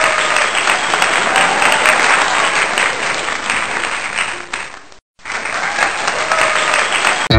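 Crowd applauding, with some cheering voices. The applause fades out about two-thirds of the way through, breaks off briefly, and starts again, then is cut off by loud electric guitar music at the very end.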